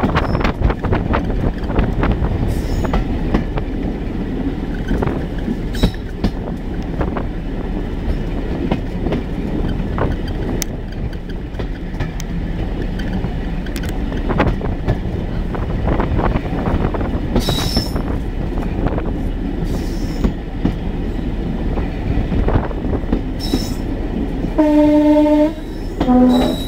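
Running noise of a 2-EPB electric multiple unit train heard on board: a steady rumble with scattered clicks of the wheels over rail joints. Near the end a two-tone horn sounds, a longer higher note and then a short lower one.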